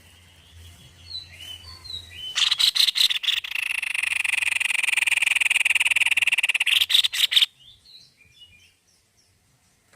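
White-bibbed babbler (tepus leher-putih) calling: a few faint chirps, then about two seconds in a loud, very rapid rattling trill that lasts about five seconds and stops abruptly, followed by a few faint chirps.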